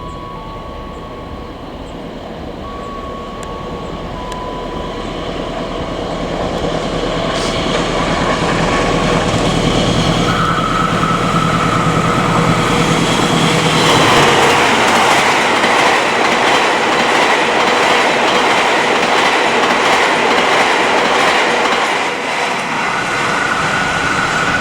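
Train hauled by an Indonesian diesel-electric locomotive passing close by. The engine's hum and the rumble of wheels on rail build steadily, growing loud about halfway through, with a few steady high-pitched tones on top.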